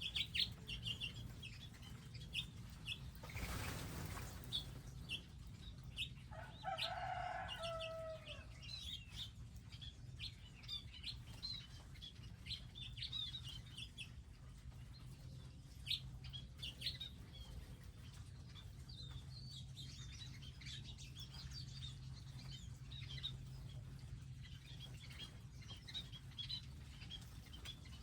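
Wild birds at a garden feeding area: many short, high chirps scattered throughout, a brief whoosh about three seconds in, and one longer, lower call lasting about a second and a half, dipping in pitch at its end, about six seconds in.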